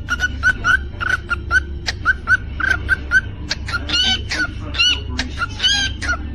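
Cockatiel chirping, a quick run of short repeated chirps about four a second, then several longer whistles that bend up and down in pitch in the second half. A steady low hum runs underneath.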